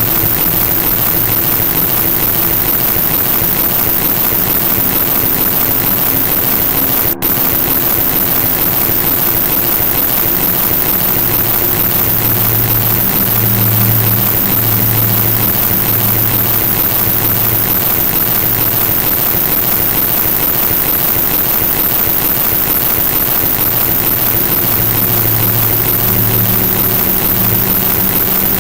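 Steady, loud hiss-like noise with a low hum underneath that swells and fades every few seconds, broken by a split-second dropout about seven seconds in.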